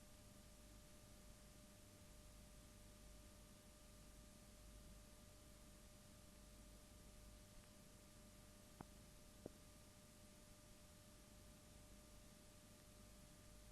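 Near silence: a faint steady hiss with a thin steady hum, and two faint clicks about nine seconds in.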